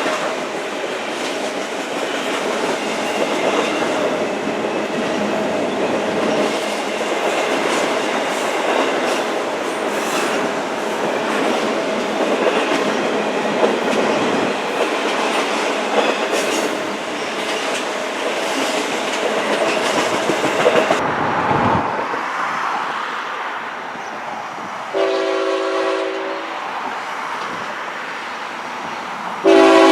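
Train passing close by, its wheels rumbling and clacking over the rail joints, the noise falling away about two thirds of the way through. Then a multi-chime air horn sounds a short blast, and a second blast starts near the end.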